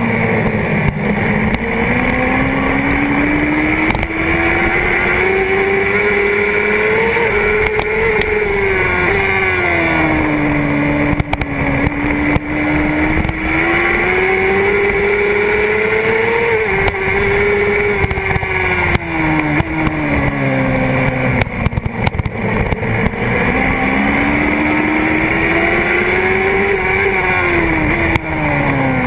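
Honda CBR600RR's inline-four engine at race pace, recorded on the fuel tank: the revs climb and fall in three long swells as the bike accelerates and slows, with quick drops near the top of each climb at the gear changes. Short knocks come through as the bike runs over the bumpy track.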